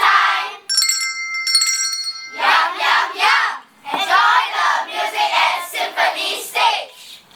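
Small bells ringing briefly near the start, followed by several seconds of repeated noisy swishing sounds, performed as part of an ensemble soundscape.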